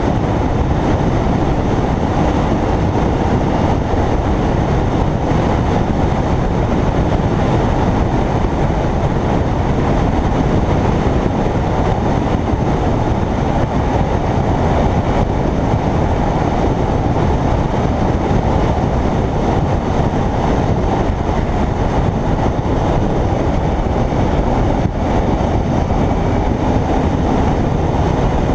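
Steady wind and road noise from a Kawasaki Ninja 300 motorcycle riding at speed, a loud unbroken rush with no clear pitch.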